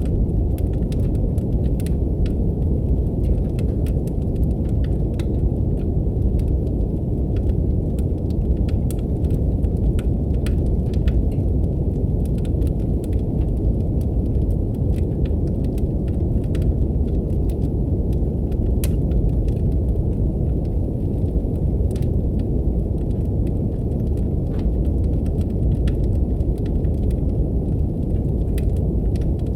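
Brown noise, a steady deep rushing hiss, mixed with a fireplace fire crackling: scattered sharp pops and snaps on top.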